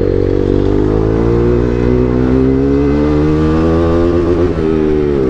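Bajaj NS200's single-cylinder engine through an Akrapovic full-system exhaust, accelerating hard under load. The exhaust note climbs steadily in pitch for about four seconds, drops briefly near the end, and then climbs again.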